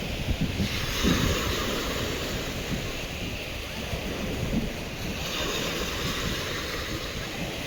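Sea waves washing on the shore, with wind buffeting the microphone in irregular low gusts.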